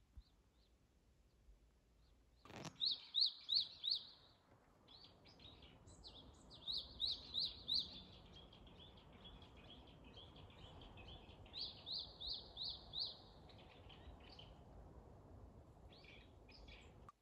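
Songbird singing: runs of four or five short, sharp chirping notes, repeated several times with scattered calls between, over a faint outdoor hiss. The sound starts suddenly about two and a half seconds in.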